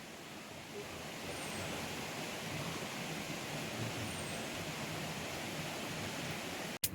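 Steady hiss of rain falling in woodland, with a stream running close by; the sound cuts out abruptly for a moment near the end.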